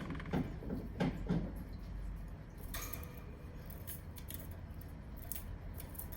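Pet canary eating: its beak pecking and cracking seed husks, a few light knocks early on, then scattered sharp clicks.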